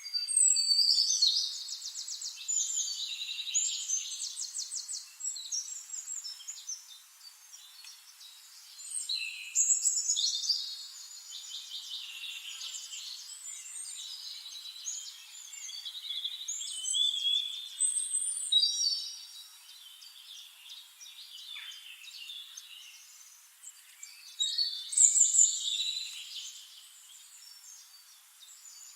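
Songbird singing in long, rapid, high-pitched phrases: four loud bursts of song, with softer chirps between them.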